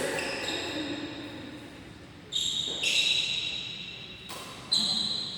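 Badminton rally: three sharp racket hits on the shuttlecock, two close together past the halfway mark and one near the end, each followed by a short high ringing tone that fades.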